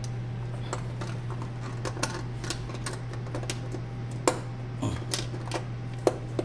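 Scattered, irregular clicks and taps of hands working on the machine's metal parts, with a louder click about four seconds in and another near the end, over a steady low hum.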